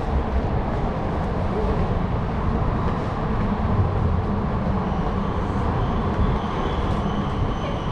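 Kyoto Municipal Subway Tozai Line train running through the underground station with a steady deep rumble. About five seconds in, a high thin wheel squeal starts on top of it.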